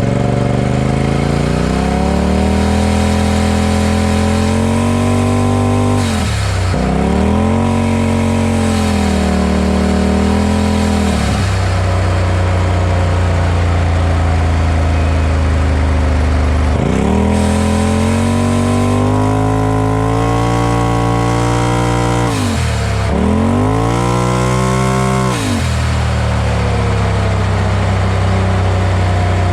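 Turbocharged twin-cylinder engine of a 2020 Polaris RZR Pro XP4, with a Gibson aftermarket exhaust and an aftermarket blow-off valve, running on a drive. It revs up and falls back about five times, with steadier lower running between the pulls and near the end.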